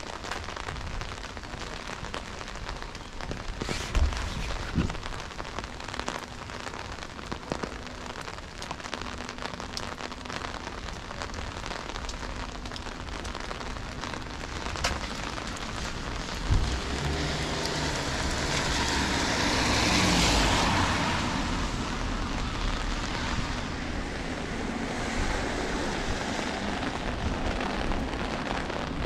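Steady rain hiss with a few scattered knocks. Just past halfway, a vehicle passes on the wet road: its tyre hiss swells and then fades over several seconds, with a low engine hum beneath it.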